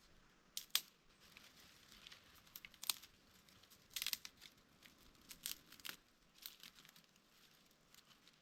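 Dry twigs and leaves crackling and snapping as they are broken and handled to set up a fire: irregular sharp snaps, the loudest cluster about four seconds in.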